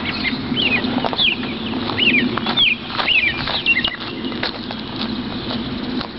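A small songbird chirping: a run of quick, downward-sliding chirps about once or twice a second that stops about halfway through, over a steady low background hum.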